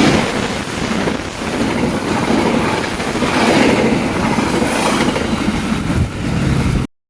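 Long-distance train passing close by, its wheels clattering over the track in repeated swells. It cuts off suddenly near the end.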